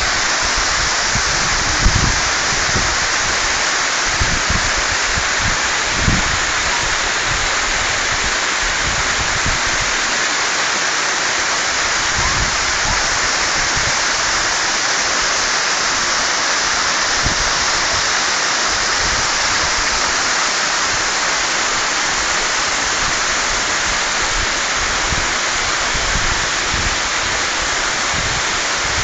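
Waterfall pouring steadily as a curtain of water over mossy rock, an even rush of water noise. A few brief low thumps break through, about two and six seconds in.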